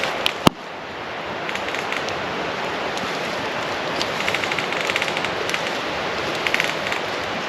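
Campfire burning, a steady hiss with patches of quick crackling. There is one sharp click about half a second in.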